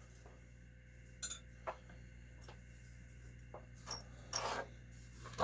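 Small metal nitro-engine parts clicking and clinking lightly as they are handled: about half a dozen scattered ticks, with a short rattle about four and a half seconds in.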